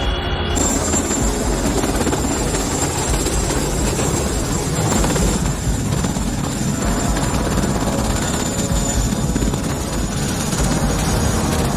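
CH-47 Chinook helicopter running: a steady, dense rotor rumble with a thin high turbine whine above it, cutting in suddenly about half a second in.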